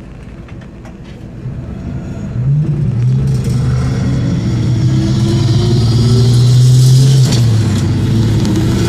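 1966 Chevrolet C20 pickup's engine pulling under acceleration, its note rising steadily from about two and a half seconds in. About seven seconds in the note breaks and drops as the four-speed manual is shifted up, then starts rising again.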